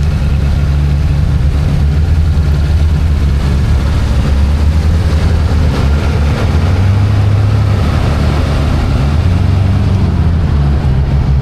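Four-wheel-drive vehicle's engine running, its pitch stepping up and down a few times with the throttle.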